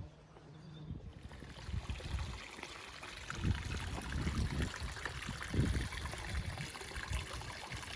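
Running water trickling, swelling about a second in, with irregular low thumps underneath.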